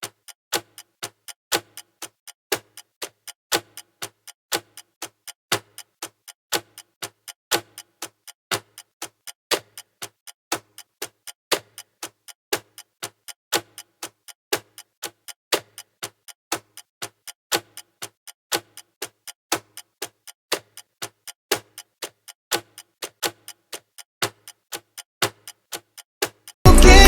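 Clock ticking sound effect, an even tick-tock at about two ticks a second with every other tick louder. Loud music cuts in just before the end.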